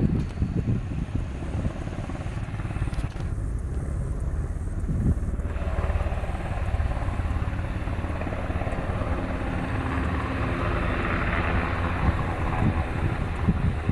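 Sikorsky HH-60G Pave Hawk helicopter's rotors and twin turboshaft engines running steadily. The sound changes abruptly twice, about three and about five and a half seconds in.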